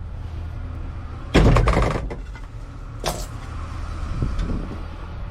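A vehicle idling, with a door opening about a second in and a door shutting about three seconds in.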